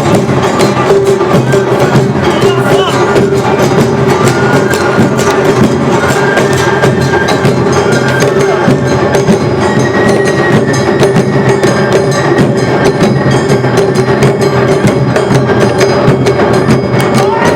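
Awa odori festival band playing: drums and struck percussion keep a dense, steady beat under a held, high melody line.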